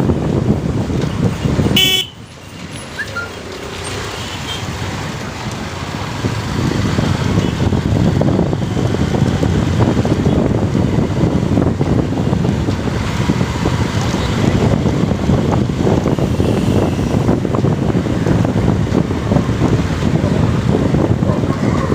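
Wind rushing over the microphone with road noise during a motorcycle ride, and one short horn toot about two seconds in. The rumble drops suddenly after the toot and builds back up over the next few seconds.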